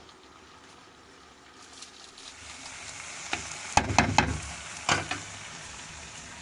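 Food frying in hot oil in a cooking pot, the sizzle building from about two seconds in. Midway there are several sharp clicks and knocks of a utensil stirring against the pot.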